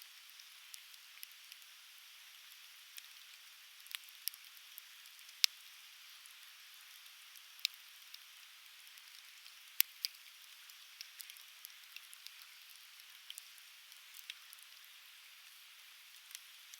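Conifer firewood crackling as it burns, with scattered sharp pops, the loudest about five and ten seconds in, over a steady soft hiss.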